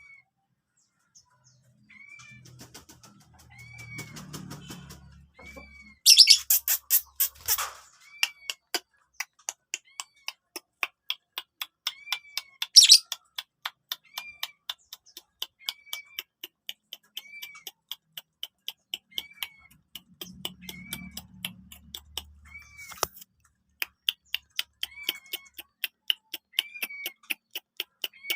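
A caged bird giving a short chirp that rises and falls, repeated about every second and a half. From about six seconds in, a fast run of sharp ticks, several a second, joins it. The ticks are loudest near the start of the run and again about halfway through.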